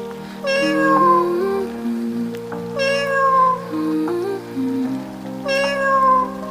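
A cat's meow, the same call repeated three times about two and a half seconds apart, over background music with steady low notes.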